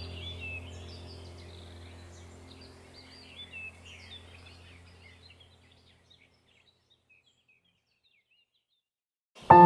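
Background soundtrack of birds chirping over a low steady hum, fading out over about six seconds into silence. Just before the end, an ambient music track starts abruptly with sustained bell-like tones.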